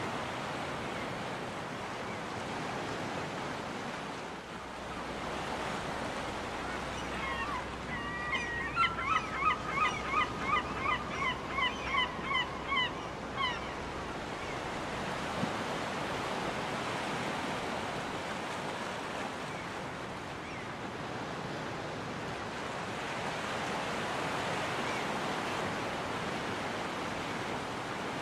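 Surf washing steadily on a beach. About eight seconds in, a gull gives a run of about a dozen repeated rising calls, roughly two a second, louder than the surf, then stops.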